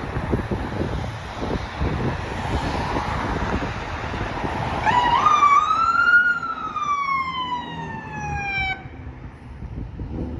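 Siren of a responding fire department vehicle sounding one wail: it rises for about a second and a half, falls slowly, then cuts off suddenly. Before it, several seconds of vehicle engine and road noise.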